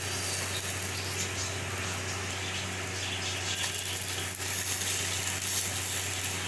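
Food frying in a pan: a steady sizzle, with a constant low hum underneath.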